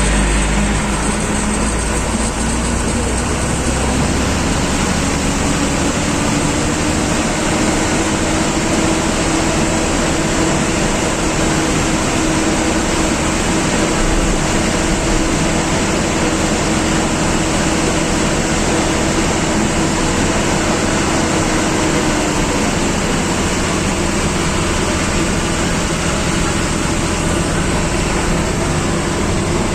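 Diesel engine of a government bus running steadily, heard from inside the driver's cabin on a winding ghat road. A steady engine note rises a few seconds in, holds for a long stretch, then fades about three quarters of the way through.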